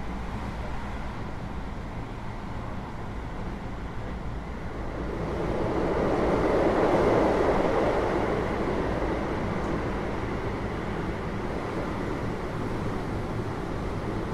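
Interior running noise of a Keio 8000 series electric train car: a steady low hum with rolling rumble. The rumble swells louder for a few seconds near the middle, then eases back.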